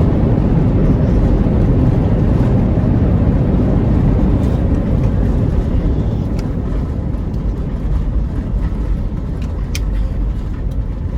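Airbus A350-900 cabin noise during the landing: a loud, heavy rumble that eases gradually over the second half as the aircraft slows, with a few faint clicks.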